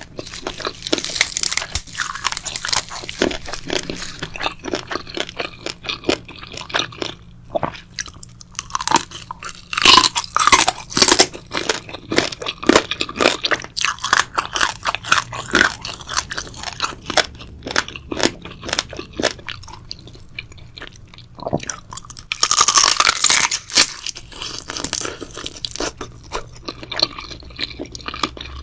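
Close-miked chewing and crunching of crisp food, a dense run of rapid crackles, with louder bursts of crunching about ten seconds in and again about twenty-two seconds in.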